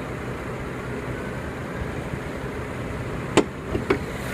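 A 2014 Mercedes-Benz C350's 3.5-litre direct-injection V6 idling steadily, with two sharp clunks about half a second apart near the end from the car's latches being worked as the hood is opened.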